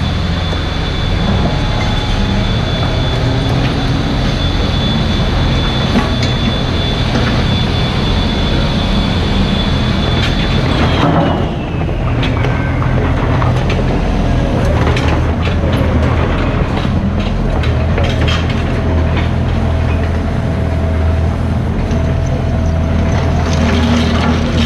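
Mini excavator's diesel engine running steadily with a high hydraulic whine. The whine holds, then slides down in pitch about eleven seconds in. After that come scattered sharp knocks and clinks of the machine working.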